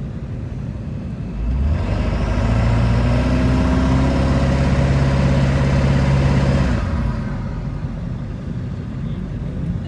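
Ford 7.3 Power Stroke V8 turbodiesel in an F-350 revved up about a second and a half in and held at high rpm for about five seconds, then dropping back to idle. It is a burnout attempt in which the tires fail to break loose.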